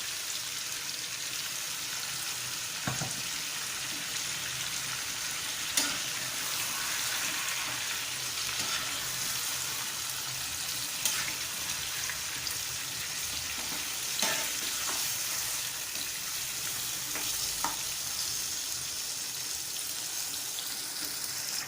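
Chicken pieces frying with onions and spices in hot oil in a pot, sizzling steadily while being stirred. There are a few sharp knocks of the spoon against the pot.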